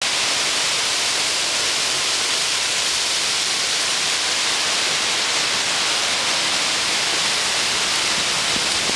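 Wind blowing through the trees, the leaves giving a steady, even hiss.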